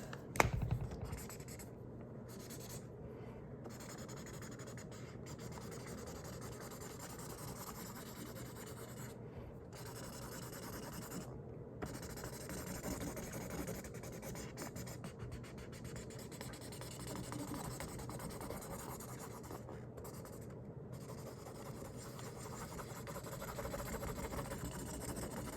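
Felt-tip marker scratching across the drawing while colouring in the white areas, a steady scribbling with a few brief pauses.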